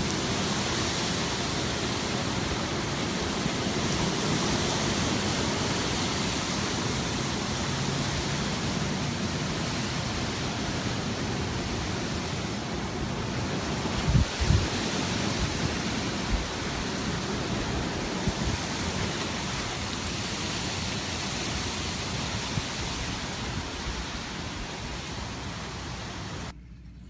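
Strong gusty wind blowing and rushing over the microphone, with a few brief low thumps of buffeting about halfway through. The noise drops off abruptly near the end.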